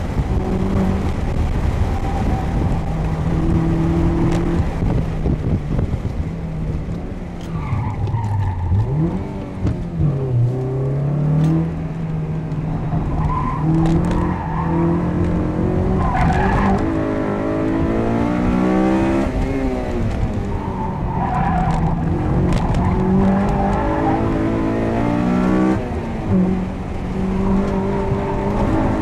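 The 2006 Honda Civic Si's 2.0-litre four-cylinder engine, heard from inside the cabin as the car is driven hard around a cone course. The revs drop sharply about eight seconds in and climb back, then rise and fall through the corners, with tyres squealing.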